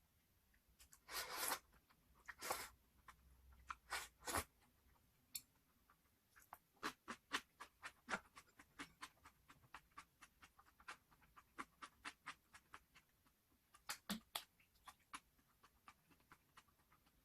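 Close-miked chewing of crispy glazed fried chicken (dakgangjeong): two louder crunches in the first few seconds, then a long run of soft, quick crunching clicks.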